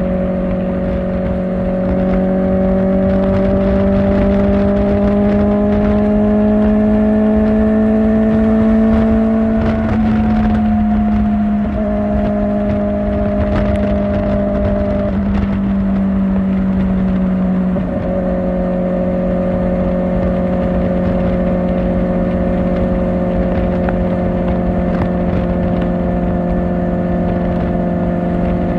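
Kawasaki Ninja ZX-4R's inline-four engine, through an Akrapovic exhaust, running steadily while riding at cruising speed. The pitch climbs slowly, wavers twice around the middle, then drops a step about two-thirds of the way in, as at a gear change, and holds steady after.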